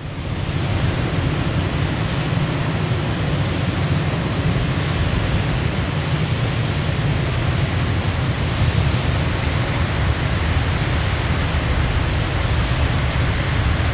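Waterfall rushing steadily: an unbroken roar of falling water with a deep low rumble under it.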